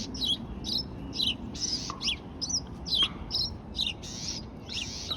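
Sparrows chirping: a quick run of short, sharp chirps, about three a second.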